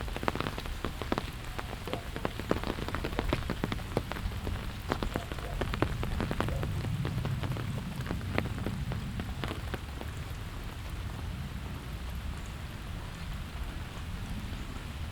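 Steady rain falling, with many sharp, close drops striking through the first two-thirds, thinning out toward the end. A low rumble swells and fades from about six to ten seconds in.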